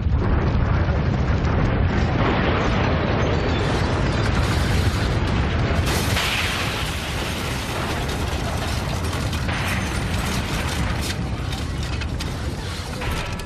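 Loud continuous rumble with dense rattling and clattering, like objects shaking during an earthquake. It turns brighter and harsher about six seconds in.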